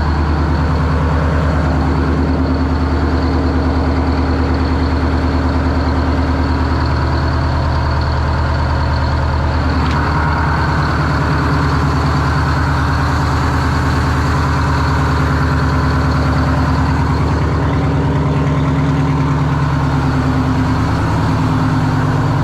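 Detroit Diesel engine of a monster truck idling steadily, a low even rumble with no change in speed.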